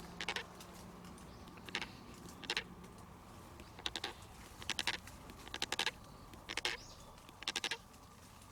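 A person's slow footsteps, each step a short scuffing crunch, about one a second.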